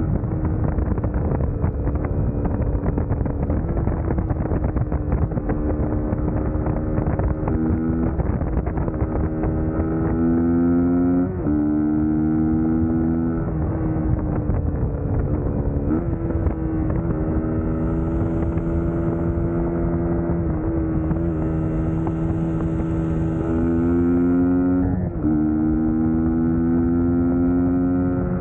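Suzuki GSX-S150 motorcycle's single-cylinder engine running on the move, its pitch rising and falling with the throttle. A few times it steps suddenly in pitch, as at gear changes.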